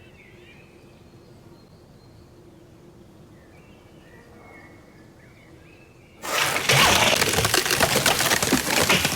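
Faint bird chirps over quiet outdoor ambience. About six seconds in, a sudden loud, dense crackling noise starts and keeps going.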